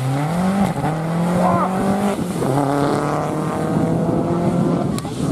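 Rally car engine pulling hard under acceleration: its pitch rises, holds, then drops sharply about two seconds in at an upshift and carries on steadily in the next gear.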